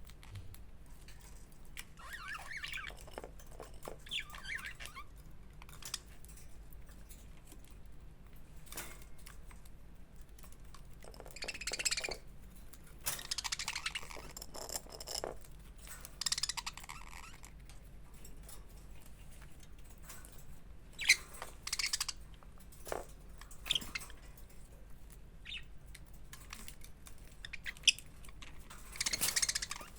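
Pet budgerigars chirping and chattering in short, scattered bursts, with scratchy noisy bursts and a couple of sharp clicks in between.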